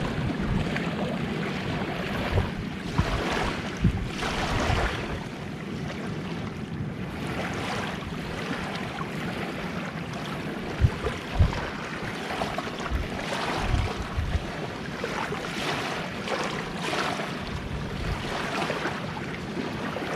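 Gentle sea waves washing onto the shore, swelling and ebbing every few seconds, with wind buffeting the microphone in a few short low thumps.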